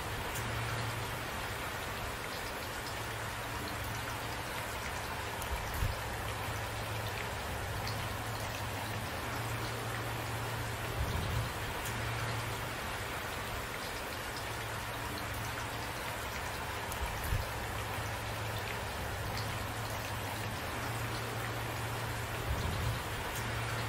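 Steady rain falling, an even hiss with a low steady hum underneath, and four brief louder thuds of drops scattered through it.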